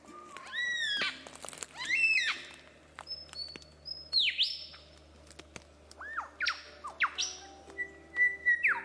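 Birds calling: a series of loud, whistled notes that arch up and drop or fall in pitch, several in quick succession near the end, over soft background music with held notes.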